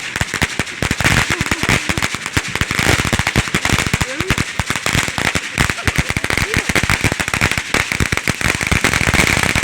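A string of firecrackers going off: a rapid, continuous crackle of sharp pops that keeps up without a break and stops just as the string burns out.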